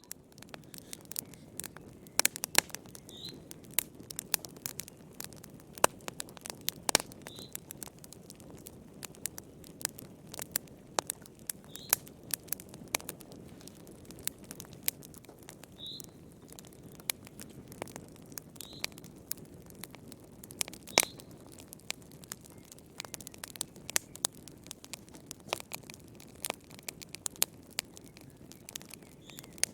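Wood fire burning in a fireplace, with frequent irregular sharp crackles and pops over a steady low rustle of flames. Short high squeaks come every few seconds.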